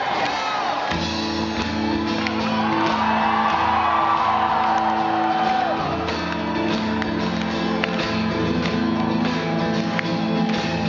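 A rock band at a live concert comes in about a second in with steady held chords, over a crowd cheering, shouting and whistling.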